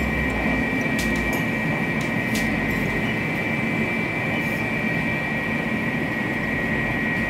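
Cabin noise of a THSR 700T high-speed train running at speed: a steady rush and low rumble, with a steady high whine over it and a few faint ticks.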